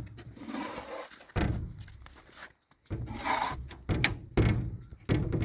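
A series of dull thumps mixed with scraping swishes, about five thumps in all.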